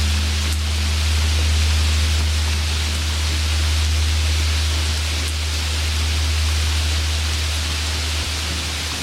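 Steady rain hiss over the deep, lingering hum of a large Korean Buddhist temple bell dying away after a strike. A fainter, higher tone in the bell's ring fades out about three seconds in, while the low hum holds.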